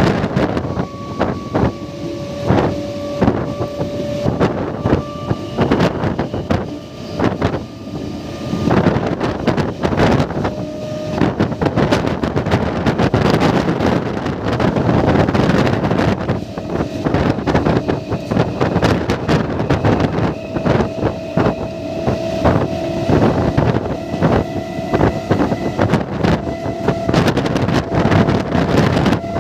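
MEMU electric multiple-unit train running at full speed, heard from an open doorway: wind buffeting the microphone over the rumble and rapid clatter of wheels on rail, with a steady whine beneath it.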